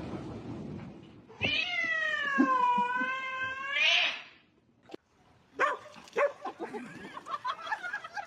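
A cat's long, drawn-out meow, sagging in pitch in the middle and rising again at the end, followed after a pause by a run of short, broken sounds.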